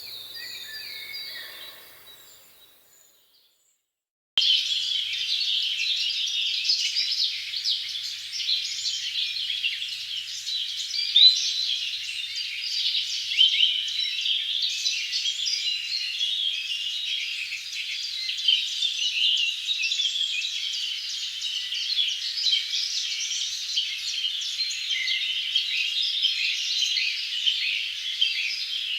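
A few bird calls fade out to a brief silence. Then, about four seconds in, a dense chorus of many birds chirping at once starts suddenly and carries on without a break.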